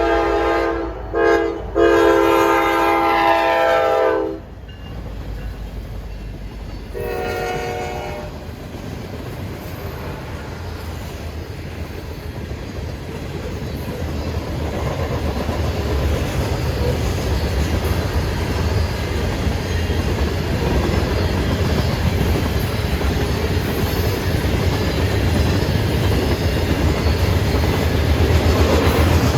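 Diesel locomotive horn sounding a long blast broken by two short gaps, ending about four seconds in, then one short blast a few seconds later. Then the train's wheels rumble and clatter on the rails, growing louder as it passes.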